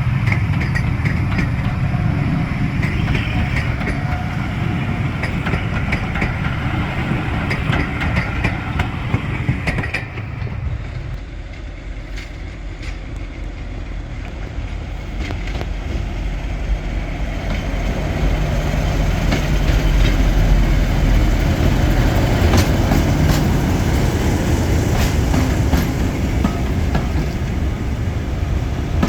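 Diesel locomotive running with a steady low rumble. After an abrupt change about a third of the way in, a train grows louder as it passes, its wheels clacking over rail joints.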